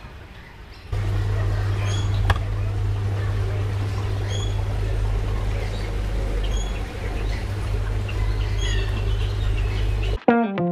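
A bird chirping repeatedly, short high calls about every second and a half, over a steady low rumble.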